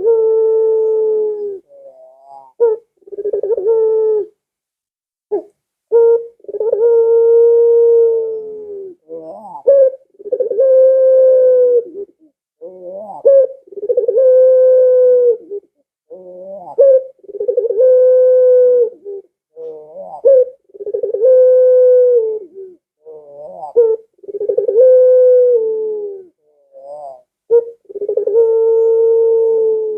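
Ringneck dove (burung puter) cooing over and over. Each call is a short stuttering lead-in and then a long, drawn-out low coo, repeating about every three and a half seconds.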